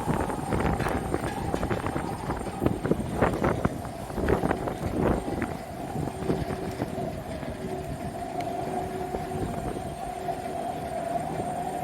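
Gusts of strong wind hitting the microphone through the first half, over a steady jet-engine whine from an airliner that grows a little stronger in the second half, with a second, lower tone joining it.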